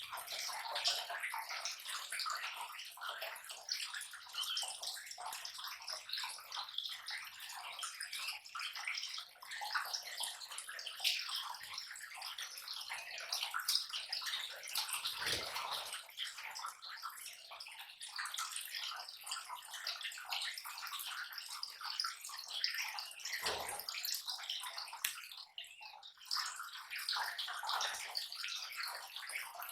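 A group of lovebirds chattering in a dense, continuous high twittering, mixed with the rustle of palm leaves being torn.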